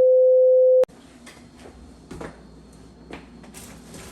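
A loud, steady electronic beep lasting just under a second that cuts off sharply. Faint room noise follows, with a few light knocks and clunks.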